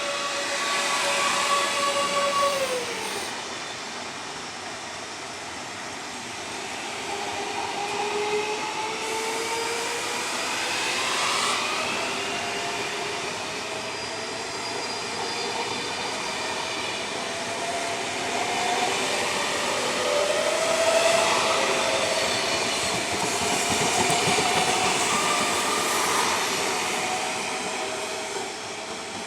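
Electric train moving through the station, with several whining tones that rise and fall in pitch over a steady rumble of wheels on rails.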